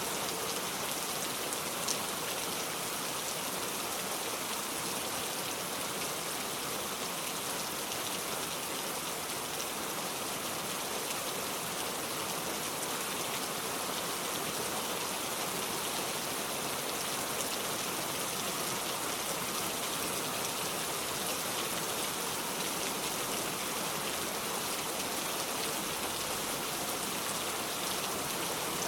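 Steady rain falling, an even hiss that keeps the same intensity throughout.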